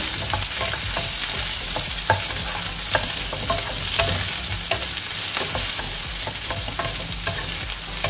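Onion quarters, garlic cloves and bird's eye chillies sizzling in hot oil in a non-stick wok, with a steady hiss, while a wooden spatula stirs them and scrapes against the pan. The spatula knocks on the pan now and then.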